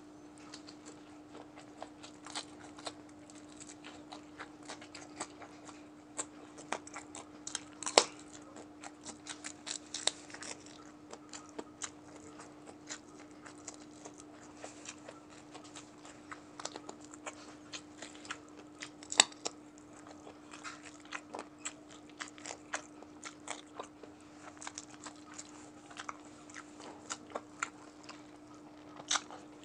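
Close-up chewing and crunching of crispy fried chicken neck: wet, smacking bites with many small crackles and two much louder sharp crunches, about a quarter and two-thirds of the way through. A faint steady hum runs underneath.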